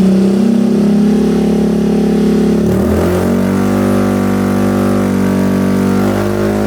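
Yamaha QBIX scooter's single-cylinder engine running at a steady idle through a Yoshimura Tri-Cone carbon full-system exhaust, its pitch shifting slightly about three seconds in.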